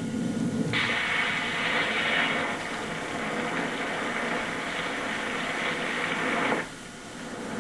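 Heavy rain pouring down, a steady hiss that starts suddenly under a second in and cuts off abruptly near the end. A low rumble is heard just before the rain starts.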